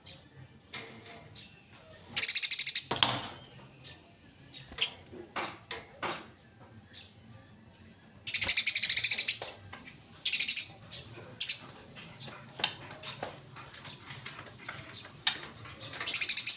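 Eurasian tree sparrows giving the harsh, rapid chattering calls of sparrows fighting. Scattered short chirps are broken by several loud bursts of fast, buzzy chatter: one about two seconds in, a longer one near the middle, a short one soon after, and another at the very end.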